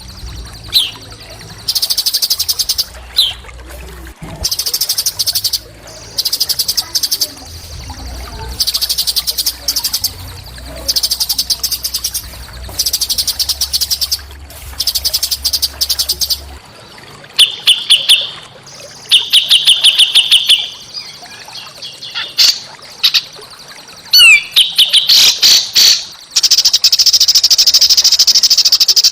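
Small songbird singing fast, high, rattling trills in repeated bursts of about a second, with one long unbroken trill near the end. This is a recorded 'masteran' tutor song with harsh, dense phrasing, used to train cage songbirds.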